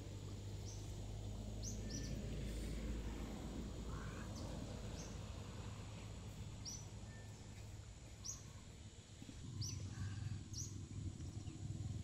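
A bird giving short, high chirps every second or two, over a steady low rumble and a faint constant high whine.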